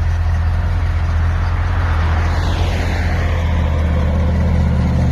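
A vehicle engine idling with a steady low drone. About two seconds in, a passing vehicle's whoosh falls in pitch.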